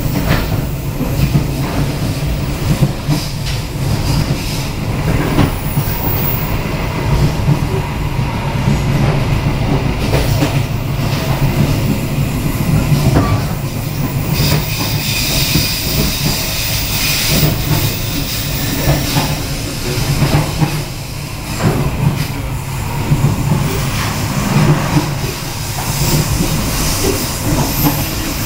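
Passenger train running along the line, heard from inside the coach: a steady low rumble of wheels on rails with scattered knocks. A brighter hiss rises for a few seconds about halfway through.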